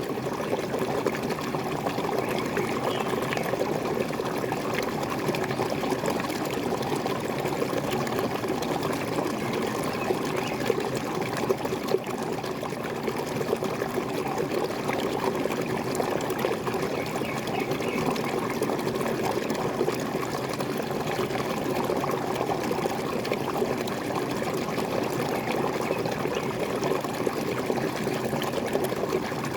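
Waterfall: water pouring and splashing steadily without a break.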